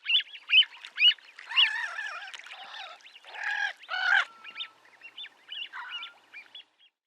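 A waterbird calling: a run of short, sharp calls, a denser, harsher stretch of calls in the middle, then shorter, fainter notes near the end.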